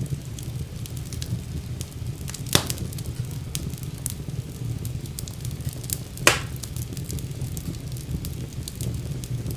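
Fire in a fireplace crackling over a steady low rumble, with frequent small snaps. Two louder pops come about two and a half seconds in and about six seconds in.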